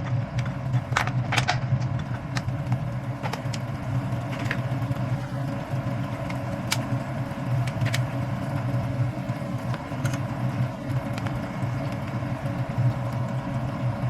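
Steady low hum of a running motor or fan, with scattered light clicks and taps over it.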